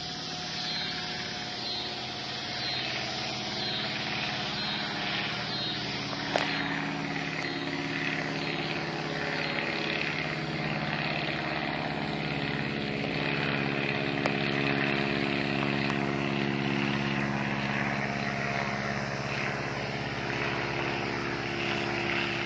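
Stearman PT-17 biplane's radial engine and propeller droning steadily in flight, growing gradually louder through the first two-thirds.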